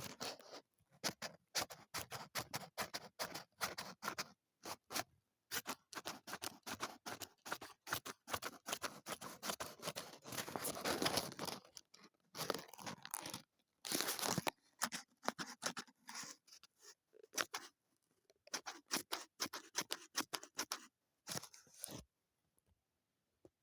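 Scissors cutting paper: runs of quick, crisp snips broken by short pauses, with a denser stretch of snipping and paper handling about ten seconds in.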